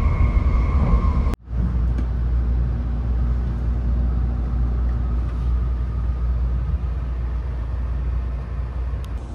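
Steady low running rumble of a 700 series Shinkansen, heard from inside the car, with a faint whine above it. The sound cuts out for an instant about a second in, then the rumble carries on.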